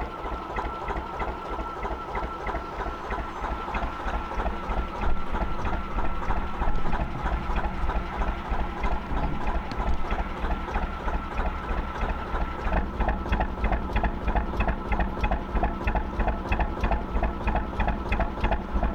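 Gardner 2LW two-cylinder diesel engine of a narrowboat running steadily under way, with an even, regular chugging beat.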